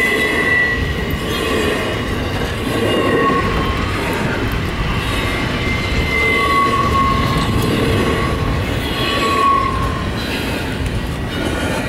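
Double-stack intermodal freight train rolling past with a steady rumble of wheels on rail and wind buffeting the microphone. Every second or two a high wheel squeal comes in, each lasting about a second.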